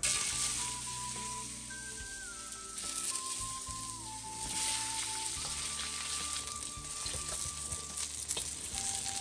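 Food sizzling in hot oil in a pan, the sizzle starting suddenly and staying steady. A simple background melody plays over it.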